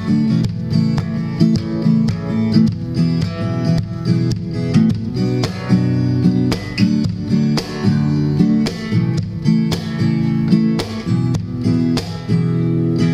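Acoustic guitar strummed and picked in a steady run of chords, with the notes left ringing near the end.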